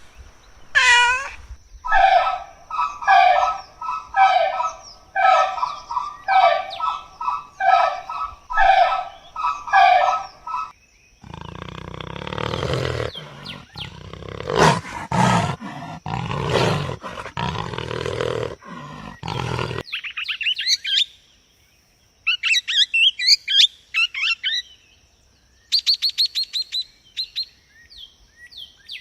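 A string of different animal calls, one recording after another: a short call, then about a dozen calls repeated evenly, roughly one and a half a second. After that comes a rough, pulsing roar-like stretch of several seconds, then high bird chirps and quick trills.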